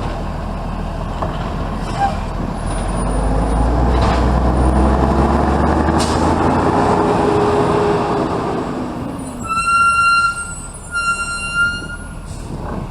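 Garbage truck engine running, building up and revving for several seconds with a whine that rises and then falls, then two long high-pitched tones about ten seconds in.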